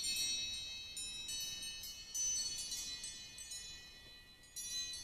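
An iOS 7 ringtone playing from an iPhone's speaker: high, bell-like chime notes that ring on and fade, with new strikes about two seconds in and again near the end.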